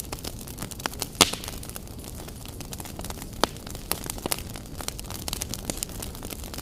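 Wood fire burning in a fireplace, crackling irregularly over a steady low hiss, with sharp pops about a second in and again a little after three seconds.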